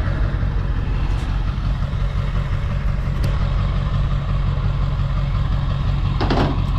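Steady low engine and road rumble of a vehicle heard from inside while it drives, with a short burst of noise about six seconds in.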